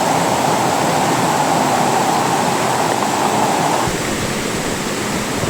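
Floodwater rushing loudly in a swollen river, a steady wash of water noise. About four seconds in, the sound shifts abruptly and becomes slightly quieter and deeper.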